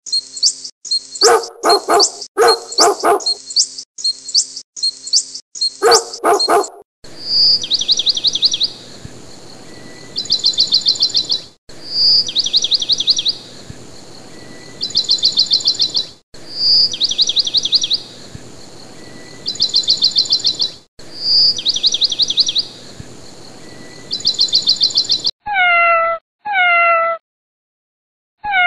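A dog barking in short runs. Then a high, rapid chirping trill repeats four times, about every four and a half seconds, over a faint hiss. Near the end a cat meows a few times, each meow falling in pitch.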